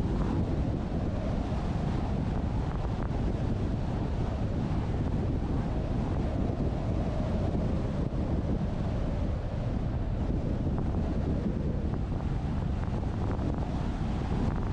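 Wind buffeting the microphone of a GoPro mounted on the roof of a moving truck, a steady low rumble mixed with road noise.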